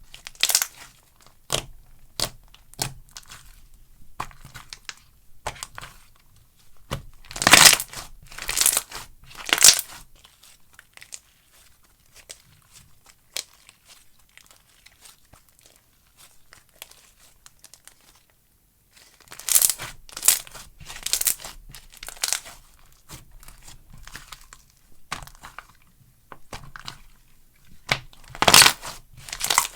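Slime being pressed, squeezed and stretched by hand, giving clusters of crackly, crinkly pops and clicks with quieter stretches in between.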